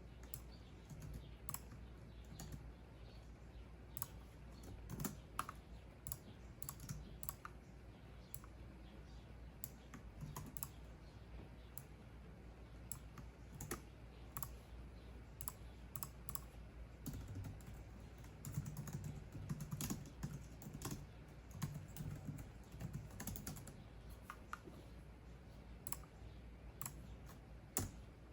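Computer keyboard typing: irregular runs of light keystrokes with short pauses between them, over a steady low hum.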